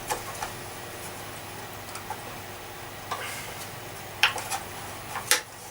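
Scattered light clicks and knocks as the parts of a Hoover Junior vacuum cleaner's brush assembly are handled while a new drive belt is fitted. The two sharpest clicks come near the end, over a faint steady hiss.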